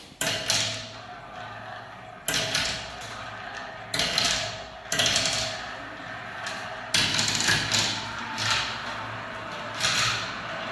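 Marbles rolling down a spiral marble-run track: a steady rolling rumble broken by sharp clacks every one to three seconds as balls drop and strike the track.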